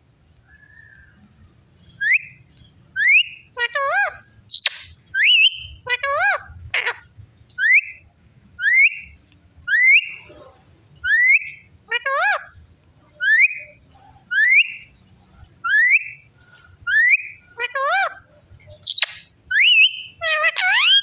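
Parrot whistling: a run of short rising whistles, about one a second, starting about two seconds in, broken now and then by warbling calls that waver in pitch.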